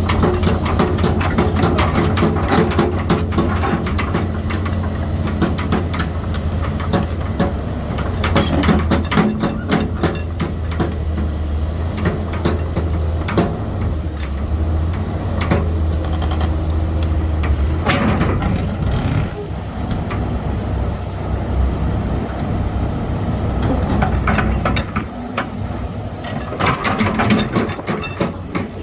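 Caterpillar 320C excavator's diesel engine running with a steady low note, with many clanks and knocks from the machine throughout. The engine note changes and eases about two-thirds of the way through.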